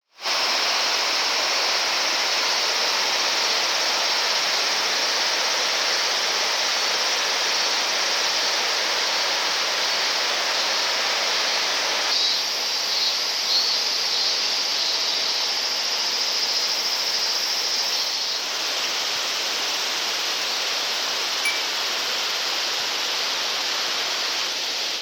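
Mountain stream rushing steadily, a loud even roar of water whose tone shifts slightly about halfway through and again later on.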